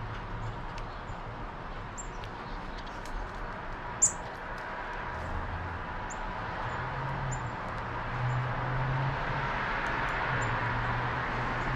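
Small backyard birds giving short, high chirps every second or so over a steady low background hum, with one sharp click about four seconds in.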